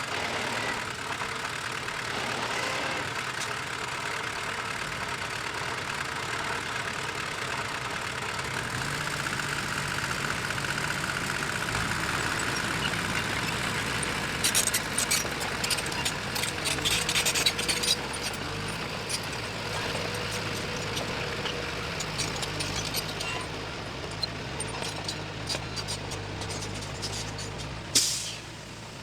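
Diesel engine of heavy earth-moving machinery running steadily, with a spell of metallic clanking and rattling about halfway through and a single sharp burst, like an air-brake hiss, near the end.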